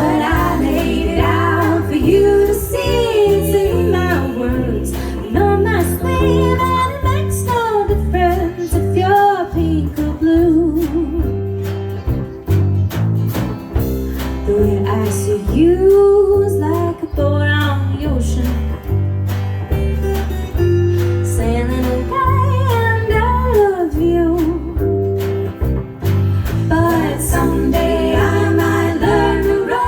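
Live home jam: a voice singing a song over strummed guitar with steady low bass notes.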